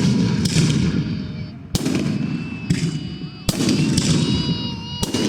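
Fireworks going off: four sharp bangs, one about every second and a half to two seconds, each followed by a low rumbling crackle, with thin high whistling tones in between.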